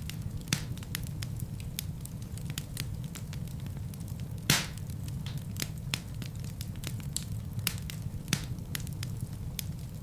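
Wood fire burning in a fireplace: a steady low rumble of flames under frequent sharp crackles and pops from the logs, the loudest pop about halfway through.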